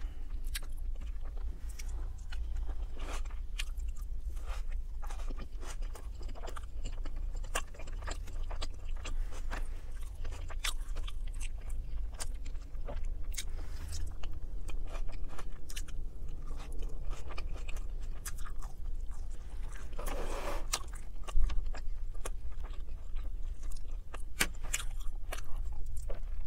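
Close-miked chewing and mouth smacking on roasted chicken, beans and potatoes, with many small clicks of a fork against the plate and teeth, over a steady low hum.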